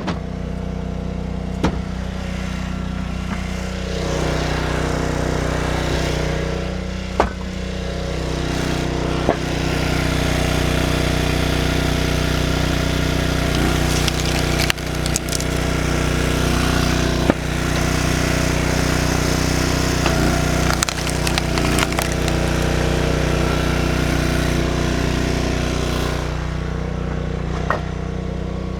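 Gas log splitter's small engine running steadily, louder in long stretches, with sharp cracks and knocks of firewood splitting now and then.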